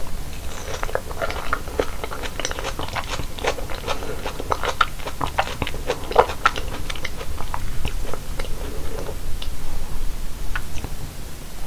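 Close-miked eating of fresh fruit: juicy bites and chewing with crisp crunches, thick for most of the stretch and thinning out near the end, over a low steady hum.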